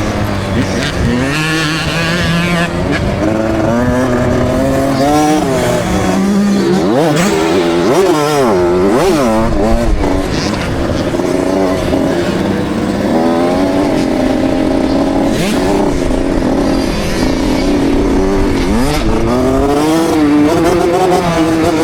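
KTM SX65 two-stroke motocross engine running hard, heard from the rider's helmet, its revs repeatedly rising and falling as the throttle is worked on and off, with the quickest swings about a third of the way through.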